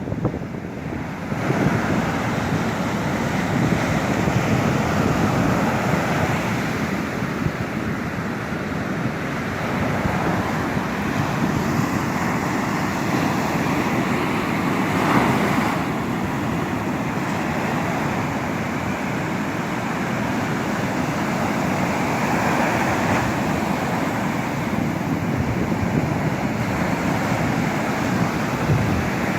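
Ocean surf breaking on a beach, a steady rushing that swells louder now and then, with wind blowing across the microphone.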